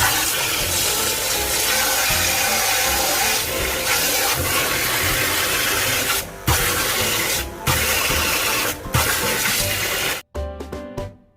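Rushing, spraying water, steady and loud, in a few clips split by brief gaps. Near the end it stops and background music comes in.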